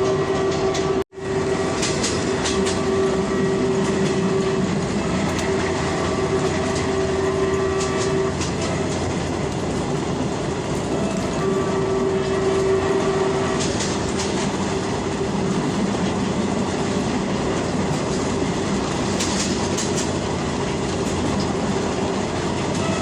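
Passenger train running along the track, its wheels clicking over the rail joints under a steady rumble, with a steady tone that comes and goes. The sound cuts out for an instant about a second in.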